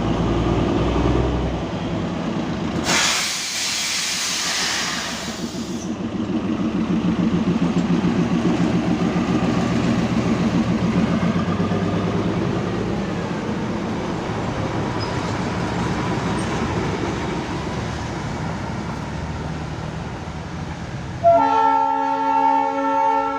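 Diesel locomotive's engine running steadily, with a loud burst of hissing air about three seconds in that lasts about three seconds. Near the end the locomotive sounds its horn, a loud chord of several tones held steady.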